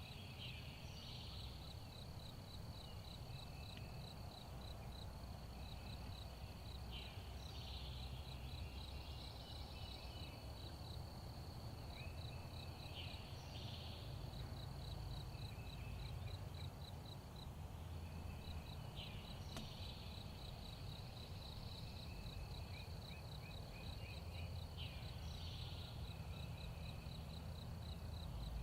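Woodland ambience: an insect trills steadily in a high, evenly pulsing buzz, while a songbird sings a short sweeping phrase about every six seconds. A low rumble runs underneath.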